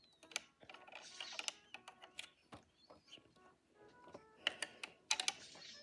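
Light clicks and taps of small plastic toy pieces being handled, with soft rustling now and then.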